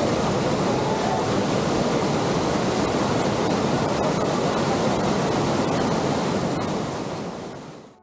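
Waterfall rushing: a steady, dense roar of falling water that fades out near the end.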